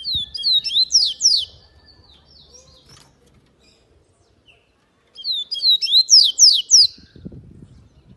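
A coleiro-baiano seedeater singing two phrases about four seconds apart, each a quick run of sweeping, slurred whistled notes.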